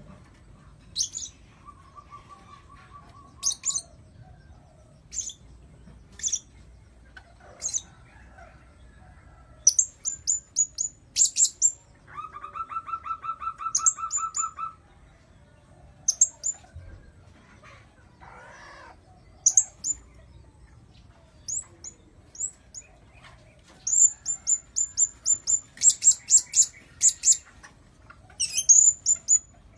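Blue-crowned hanging parrot lure calls: sharp, very high-pitched chirps, some single and some in quick runs of several notes, with two lower, buzzy trilling notes, one about two seconds in and a longer one near the middle.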